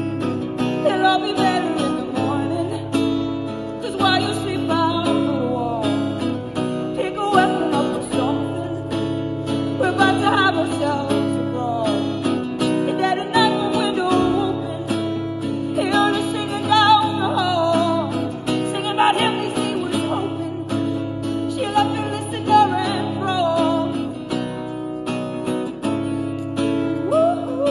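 Acoustic guitar strummed steadily with a voice singing a melody over it, as a live solo performance.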